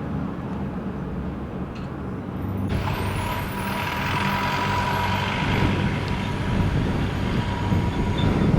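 Motorcycle running on the road with wind noise. A little under three seconds in the sound changes abruptly, with more hiss and a steady whine added.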